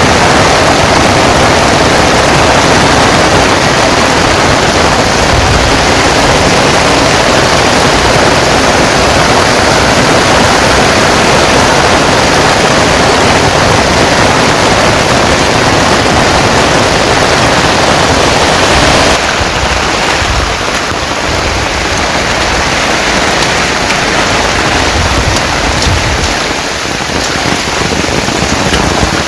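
Heavy rain pouring, a dense steady hiss that drops somewhat in level about two-thirds of the way through.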